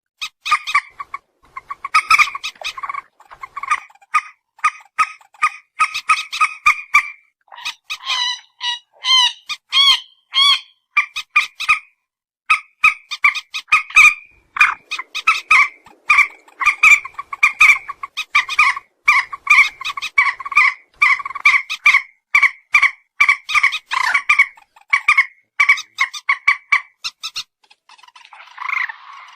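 Lure-call recording of a rice-field bird calling: a fast, almost unbroken run of short, loud notes repeated several times a second. A stretch of quicker wavering notes comes about eight to eleven seconds in, and the calling turns fainter near the end.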